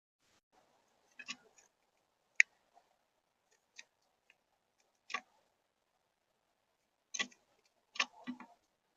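Irregular dry clicks and taps from birds feeding at a bird feeder: beaks pecking and knocking at seed. There are about seven taps spread unevenly, the sharpest about two and a half seconds in and a quick pair near the end.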